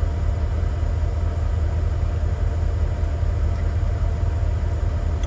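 Steady low rumble of an idling truck engine, even throughout with no revving or knocks.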